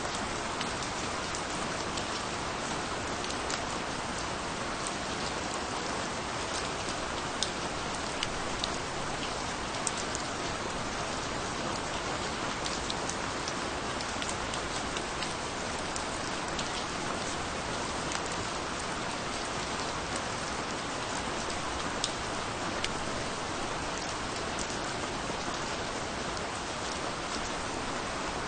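Steady rain falling on a surface, an even hiss with many small distinct drop ticks scattered through it.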